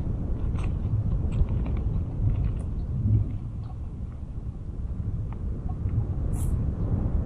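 Wind buffeting the microphone as a steady low rumble, with scattered light clicks and crackles and a short hiss about six seconds in.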